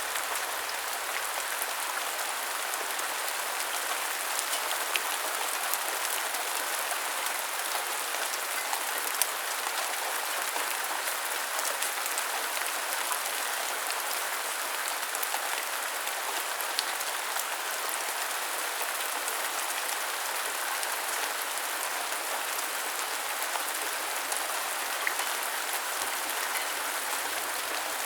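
Steady rain falling and pattering on surfaces, with scattered single drops ticking now and then.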